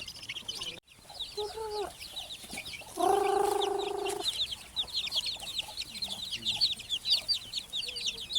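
A brood of chicks peeping constantly in quick, high, falling chirps, the steady peeping of chicks that are cold and need warmth. About three seconds in, a louder, lower call from an adult chicken lasts about a second.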